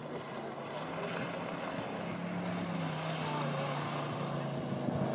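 Motorboat engine running with a steady low drone that slowly grows louder as the boat comes closer.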